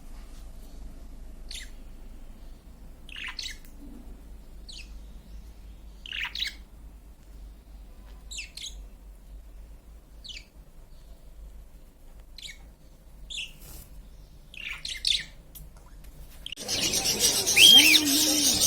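Small birds chirping: short, scattered chirps every second or two, then near the end a sudden louder burst of busy chirping with quick repeated calls.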